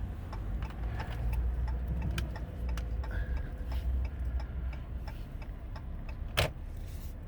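Low rumble of a 2014 Ram 1500 EcoDiesel's 3.0-litre V6 turbodiesel heard inside the cab, with light ticks every fraction of a second and one sharp click about six seconds in.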